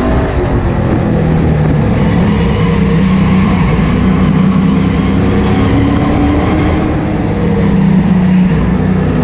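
Super stock race car engine running hard at racing speed, its pitch falling and rising again several times as the driver lifts and gets back on the throttle.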